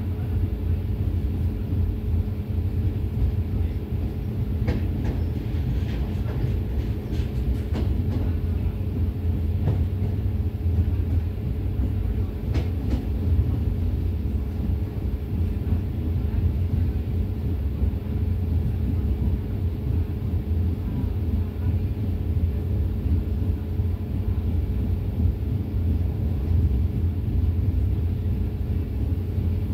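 A moving passenger train running steadily, a low rumble heard from inside the carriage. There are a few faint clicks between about five and thirteen seconds in.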